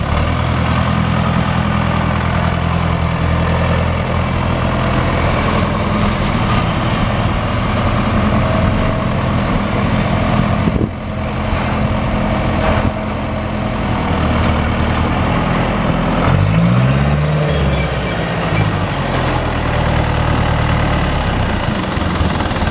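John Deere 2350 tractor's three-cylinder diesel engine running steadily; about two-thirds of the way through, the engine speed briefly dips and comes back up.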